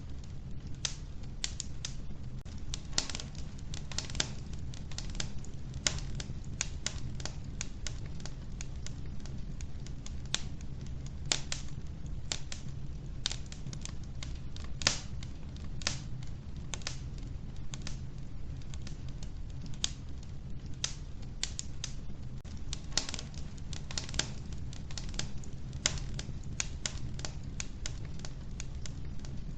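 Wood fire burning in an old wood-burning stove, with irregular sharp crackles and pops, several a second, over a steady low rumble.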